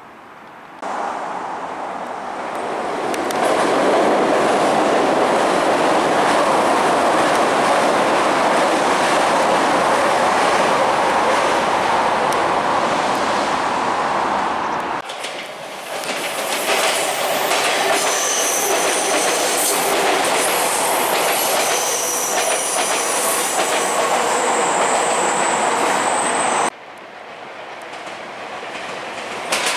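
Electric commuter trains passing, in shots joined by abrupt cuts. First comes the steady rolling noise of a train going by. From about halfway, wheels clatter across a steel girder bridge with thin high wheel squeals. Near the end the sound cuts to the rising noise of another train approaching.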